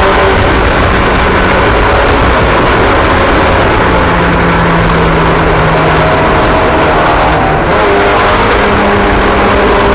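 Several small race car engines running together at speed, their steady pitches overlapping and shifting, with a brief dip in level about three quarters of the way through.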